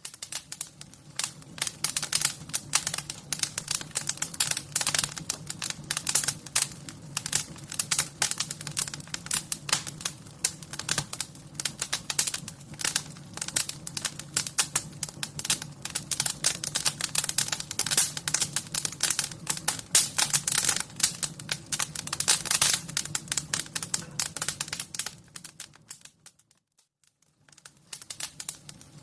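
Wood fire crackling in a fireplace: a dense, irregular run of snaps and pops over a low steady rumble. It cuts out for a couple of seconds near the end, then starts again.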